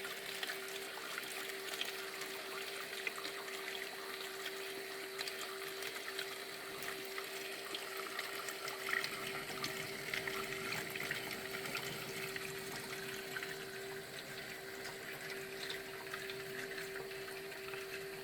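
Water running steadily into a Bosch washing machine's detergent drawer, with a steady hum underneath.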